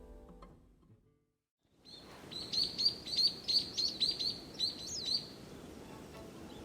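A bird singing: a quick run of about a dozen high chirping notes, roughly four a second, starting about two seconds in and lasting about three seconds, over a faint steady outdoor hiss.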